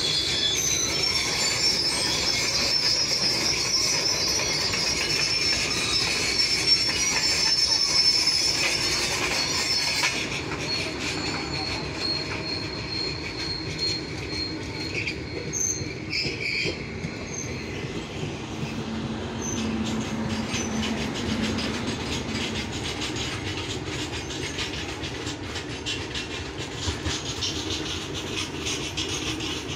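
A train running past with its wheels squealing at a high pitch over a steady rumble of wheels on the track. The squeal dies away about ten seconds in, and the rumble carries on more quietly.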